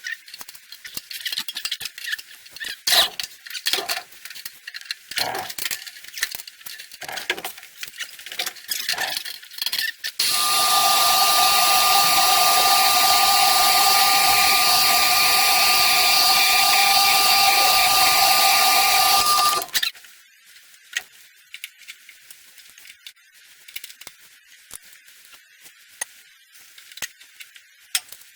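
Scattered metallic clinks and knocks of tools and parts being handled, then a power tool starts about ten seconds in, runs at a steady pitch for about nine seconds and cuts off suddenly, followed by a few light clicks.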